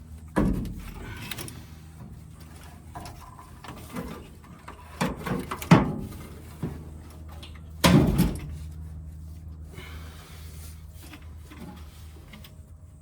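Several sharp knocks and clunks of hard parts being handled, loudest around six and eight seconds in, over a steady low hum.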